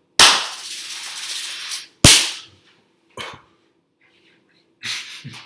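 Two loud, sharp bangs about two seconds apart. The first is followed by a hiss lasting over a second, and the second dies away quickly. Smaller noises follow later.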